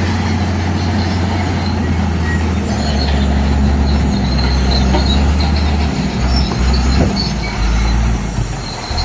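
Shantui crawler bulldozer working: its diesel engine runs with a steady low drone under load, while the steel tracks squeal and clank.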